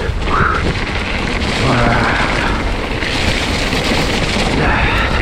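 Steady, loud rush of wind and trail noise on an action camera's microphone as a mountain bike descends a wet, muddy trail in the rain.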